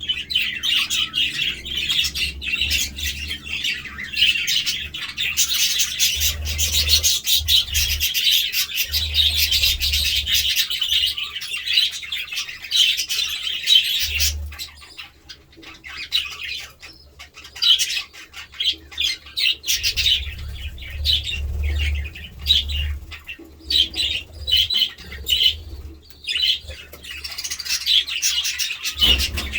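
Budgerigars chattering and warbling in a fast, continuous stream of chirps, breaking into shorter bursts of chirping about halfway through.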